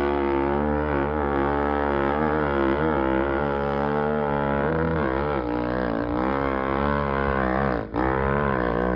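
KTM 500 dirt bike's single-cylinder four-stroke engine running hard up a hill climb, its pitch rising and falling with the throttle, with a brief dip about eight seconds in.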